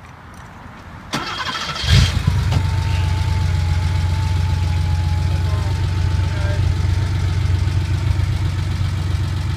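1988 Porsche 911 Carrera's air-cooled 3.2-litre flat-six being cranked and catching about two seconds in with a loud flare, then settling into a steady idle.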